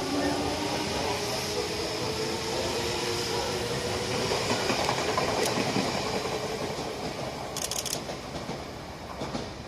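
Odakyu electric commuter train moving along the platform: steady wheel-on-rail rumble that slowly fades, with a brief quick clatter about eight seconds in.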